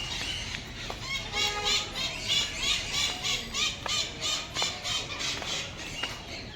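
Zoo birds calling in a quick series of short, high, arching notes, about four a second, for several seconds. A few sharp clicks are scattered among them.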